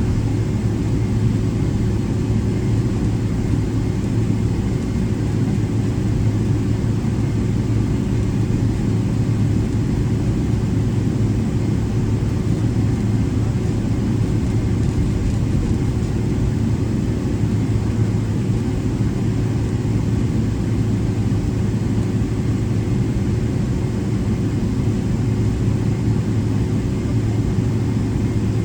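Cabin noise inside a Boeing 777-300ER with its GE90 turbofan engines at taxi idle: a steady low drone and hum with a faint steady whine above it.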